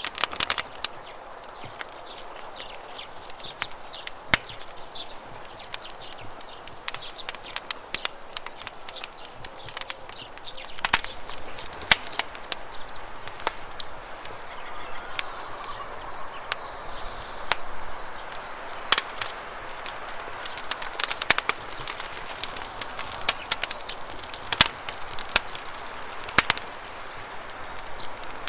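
Wood campfire crackling with sharp, irregular pops over the steady rush of running water. A bird calls a quick series of short high notes about halfway through, and again more briefly later.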